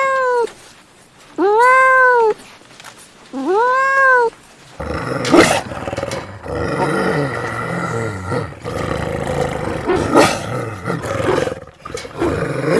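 A cat meowing three times, each meow about a second long, rising then falling in pitch. About five seconds in, a different animal takes over with a rough, continuous growling call, broken by a couple of sharp cracks.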